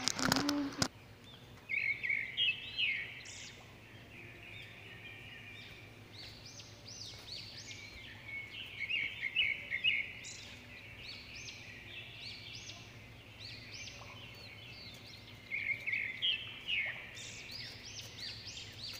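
Songbirds chirping in spells of quick, high, arching notes: from about two seconds in, again through the middle, and once more near the end. A short noise sounds right at the start.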